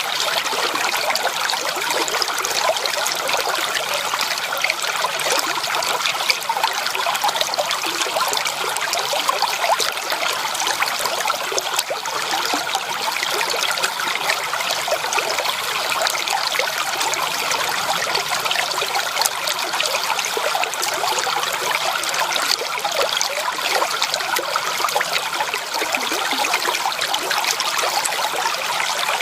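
Shallow creek water trickling and babbling over stones, a steady continuous splashing flow.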